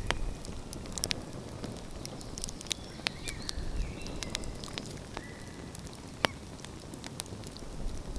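Outdoor wood fire crackling, with frequent irregular sharp pops over a low rumbling background. A few short, faint whistling tones come and go.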